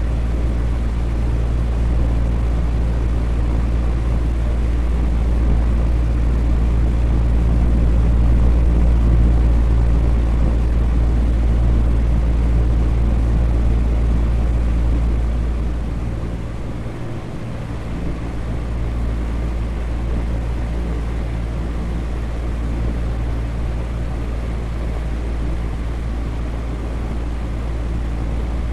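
Electric fan running steadily: an even rushing drone with a strong low hum, which dips slightly a little past halfway before settling back.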